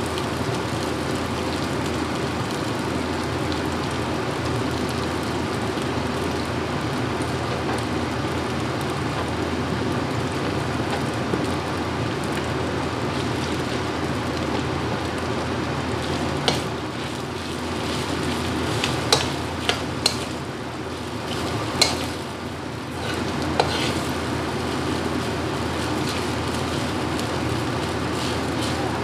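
Diced sausage, vegetables and rice frying in a hot metal wok on a gas burner, a steady sizzle. From about halfway there are a few sharp clinks of metal against the wok as the rice is stirred in.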